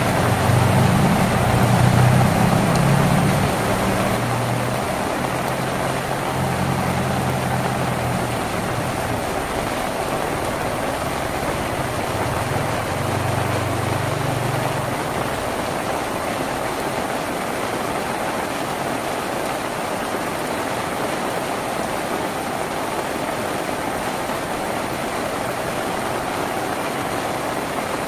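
Steady heavy rain drumming on a tin roof. A low engine hum sits under it for the first half and fades out about halfway through.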